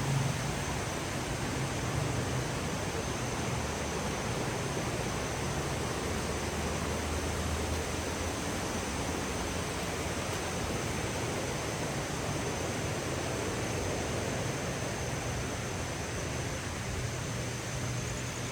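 Steady even hiss of light rain, with a faint low hum underneath and a thin high tone above.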